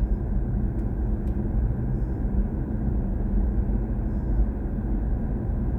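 Steady low rumble of road and tyre noise from a BMW i4 M50, an electric car, driving along, with no engine note.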